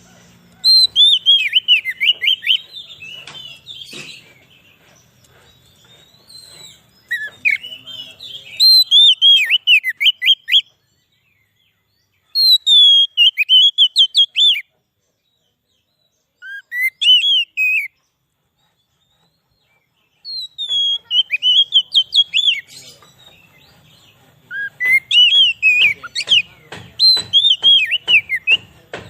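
Oriental magpie-robin (kacer) singing: about six phrases of rapid, sharp whistled notes, each a second or three long, with short silent gaps between them.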